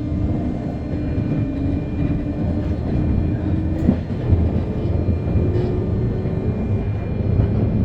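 Running noise inside a JR West 201 series electric train car: a steady low rumble of wheels on rail with a constant hum from the train's electrical equipment. The hum's pitch drifts slightly lower, breaks with a short click about four seconds in, and a slightly higher tone takes over.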